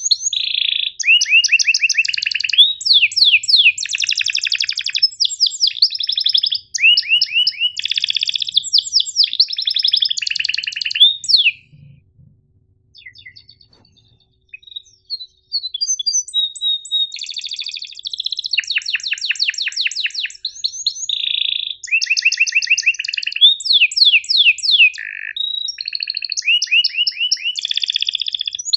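Domestic canary singing in rapid rolling trills and sharp chirp phrases. The song breaks off a little before the middle for about three seconds, with only a few scattered notes, then picks up again.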